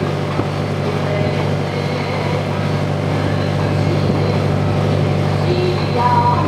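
Sightseeing boat's engine running steadily, a constant low drone heard from inside the passenger cabin.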